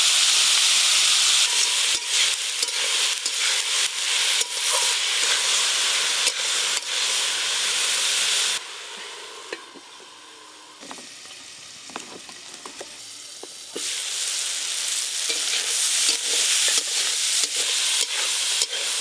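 Mixed vegetables frying and sizzling in a metal karai, with a spatula clicking and scraping against the pan as they are stirred. About halfway through, the sizzle drops to a low hiss while a lid covers the pan. It comes back loud with more stirring some five seconds later.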